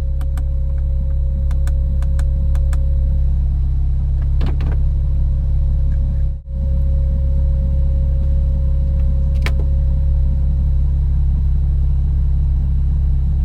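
Porsche 911 Turbo's twin-turbo flat-six idling, heard from inside the cabin as a steady low rumble, with a few light clicks over it. The sound briefly cuts out about halfway.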